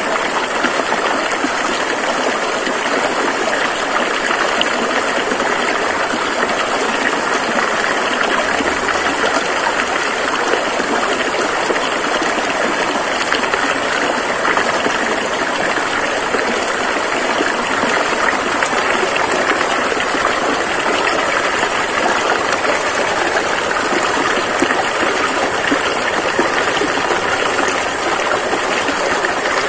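Fast-flowing river rushing over rocks: a steady, loud, even wash of water that does not change.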